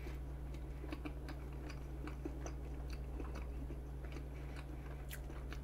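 Soft close-miked chewing of a mouthful of vanilla pound cake: faint wet mouth clicks and smacks scattered throughout, over a steady low hum.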